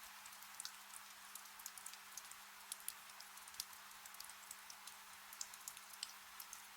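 Gentle rain falling in a forest, faint: a soft steady hiss with many small, scattered drop ticks.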